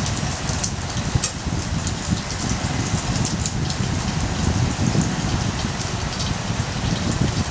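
Wood fire burning in a small fire stand: a steady rushing noise with scattered sharp crackles and pops throughout.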